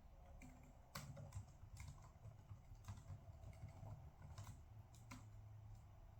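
Faint, sparse computer keyboard key presses, a handful of irregular clicks, over a low steady hum.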